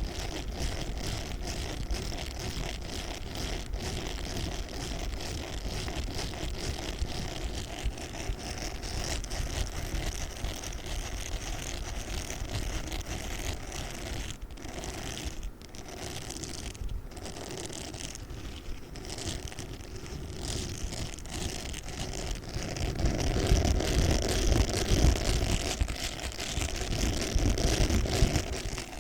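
Pink spiky sponge being squeezed and rubbed close to the microphone: a continuous scratchy rubbing with a few brief pauses around the middle. It grows louder and deeper about three-quarters of the way through.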